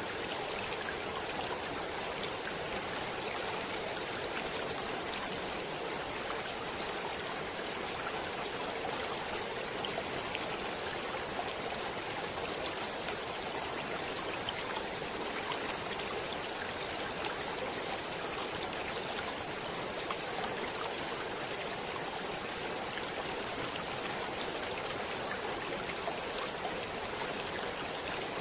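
Stream water running steadily: an even rushing hiss with faint small splashing ticks scattered through it.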